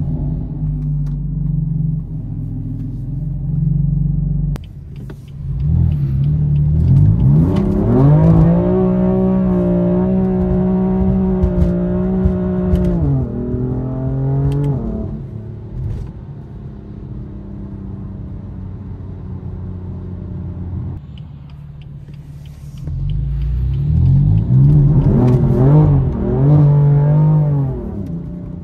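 BMW F82 M4 Competition's S55 twin-turbo inline-six, steady at first, then revving up hard and holding high revs for several seconds before falling back. Near the end it climbs again through several rises and dips as it pulls through the gears.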